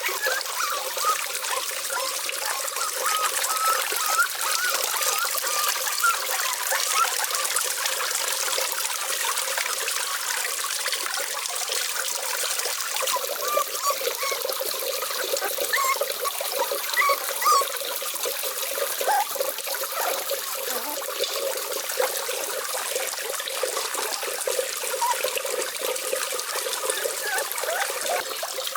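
Water trickling and splashing steadily, with small bubbling chirps.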